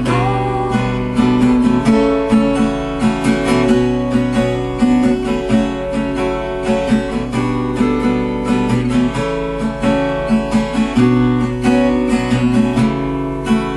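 Acoustic guitar strumming chords in an instrumental break between sung verses of a song.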